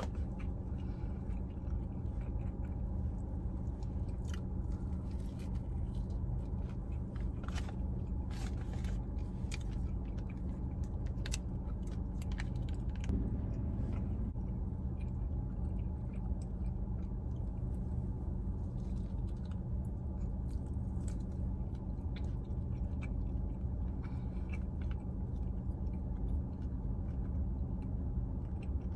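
Close-up chewing and biting of a fried fish sandwich, with scattered small clicks from opening and handling a plastic dipping-sauce cup, over a steady low hum inside a parked car.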